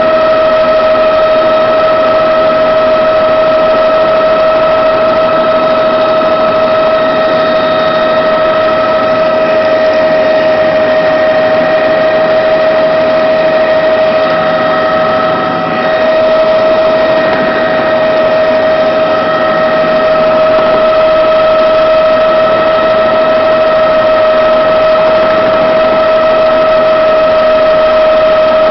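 Helicopter in flight: a loud, steady engine and rotor drone with a high, steady whine, dipping slightly for a moment about halfway.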